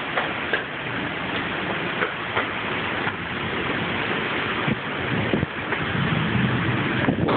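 Heavy thunderstorm rain pouring down, with many drops ticking and spattering on nearby surfaces. A low rumbling noise grows louder in the second half.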